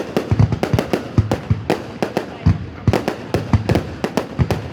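Fireworks going off in quick, irregular succession: sharp bangs, several a second, each with a deep boom.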